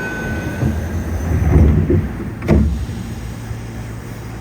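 Interior sound of a Yokohama Municipal Subway 3000N train car: a short steady tone that fades within the first second, low rumbling that swells, and one sharp thump about two and a half seconds in.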